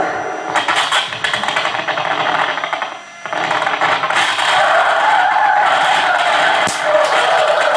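Live experimental noise music: a loud, dense wall of scraping, rattling noise that thins out briefly about three seconds in, then comes back.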